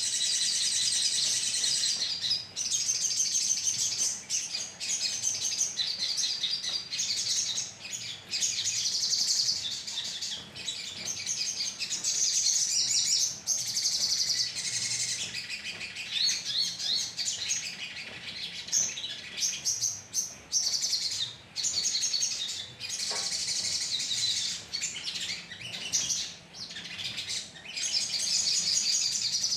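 A colony of sogon birds calling together: dense, overlapping rapid high chirps and twitters with only brief pauses, the kind of flock recording played as a lure to draw birds in.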